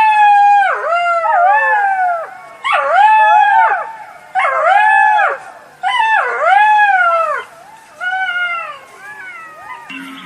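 Jackals howling in chorus: several overlapping, wavering cries that rise and fall in pitch, coming in about five bouts with short pauses between them.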